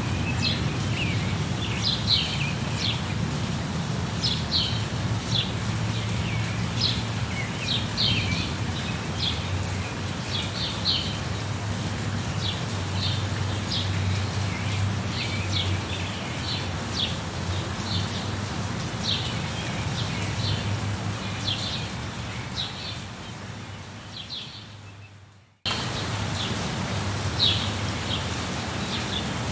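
Steady rain with many birds chirping over it in short repeated calls. About 25 seconds in, the sound fades to silence and then cuts back in abruptly at full level, as at the join of a looped recording.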